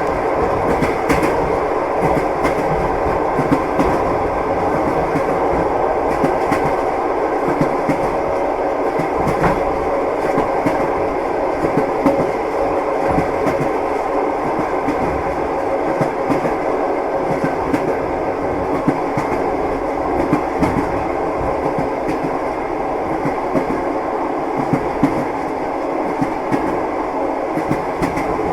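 Railway carriage rolling along the track: a steady rumble with the clack of the wheels over the rail joints.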